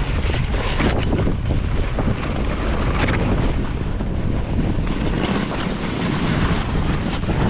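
Wind rushing over the microphone, mixed with the steady hiss and scrape of a snowboard riding over snow.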